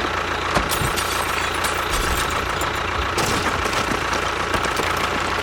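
Small motor of a DIY miniature construction vehicle running steadily, with a thin high whine and a few scattered clicks.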